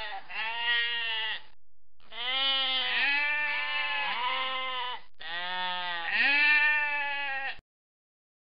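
Sheep bleating: a series of long calls, several running into one another, that cut off abruptly shortly before the end.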